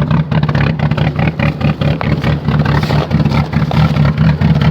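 Chevrolet Cavalier engine running very rough just after a 0°F cold start, with an uneven, choppy beat. It sounds terrible, like a cammed V8 or a rotary, as the cold-soaked engine struggles to run smoothly.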